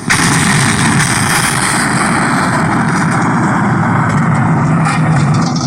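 A firework set off on a countdown, starting suddenly and burning with a steady, loud rushing hiss like a fountain firework.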